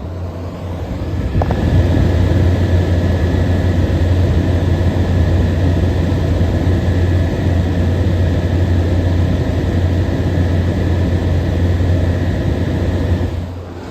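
Frigidaire 18,000 BTU air conditioner running: a steady low hum under the rushing whir of its fan, with a thin high whine over it. It grows louder over the first couple of seconds and drops off suddenly near the end.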